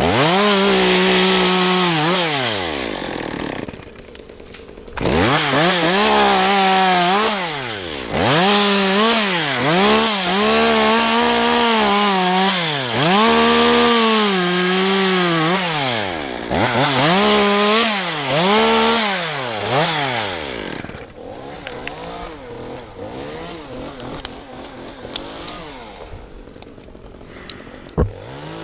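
Chainsaw cutting wood: it is revved up and let back down again and again, about every two to three seconds. Near the end it drops to a quieter, low running idle, with one sharp click.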